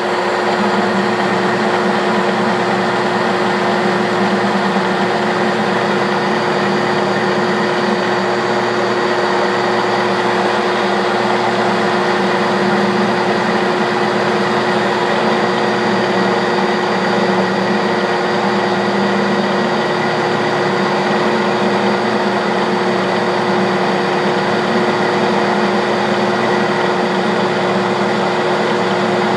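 Clausing Colchester 1340 metal lathe running steadily under power, taking a turning pass on the workpiece. It makes a constant gear whine over a dense mechanical noise.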